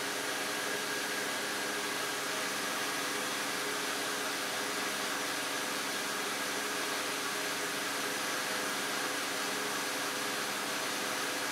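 BMW X5's 3.0-litre straight-six engine idling steadily, with an even hiss over it. The engine has a vacuum leak that has set the lean codes P0171 and P0174.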